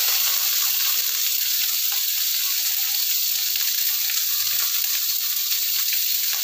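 Steamed green beans and pieces of roast chicken sizzling as they fry in a nonstick wok: a steady high hiss with a few faint crackles.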